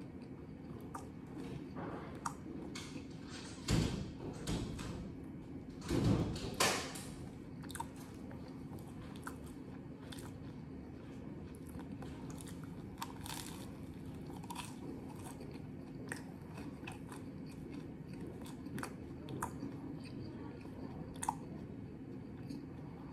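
A person chewing and biting into a crusty toasted beef sandwich, with repeated small crunches and two louder crunchy bursts about four and six seconds in. A low steady hum runs underneath.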